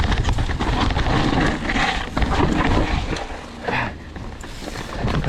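Mountain bike rattling over a rough dirt trail: many irregular knocks and clicks over a steady low wind rumble on the rider's camera microphone.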